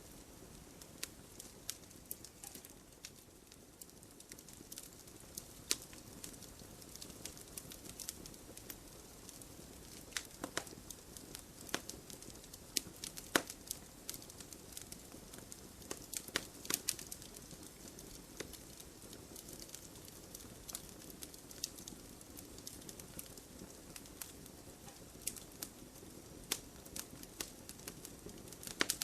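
Wood fire crackling in an open fireplace: irregular sharp pops and snaps, thicker for a few seconds in the middle, over a soft steady rustle of the burning.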